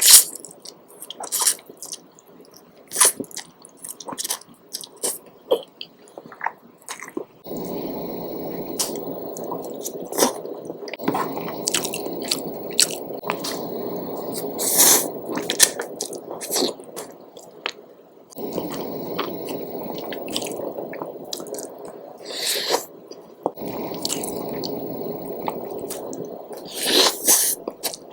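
Close-miked eating: wet chewing and mouth smacks, with many short sharp clicks scattered throughout.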